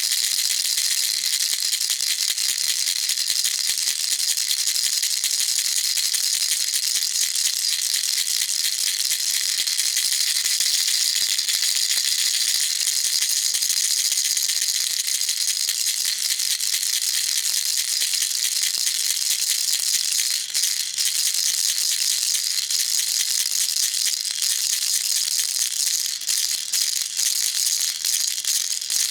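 Baby rattle shaken continuously: a dense, steady, high-pitched rattling of small beads, with a few brief lulls near the end.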